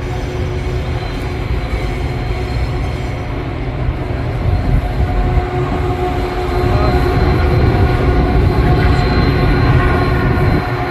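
Train passing: a heavy, steady rumble that grows louder about six seconds in, with a few thin steady tones above it.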